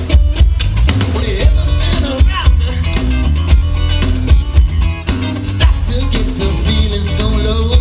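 Live rock band playing: drum kit keeping a steady beat, bass guitar, electric guitar, and a singing voice.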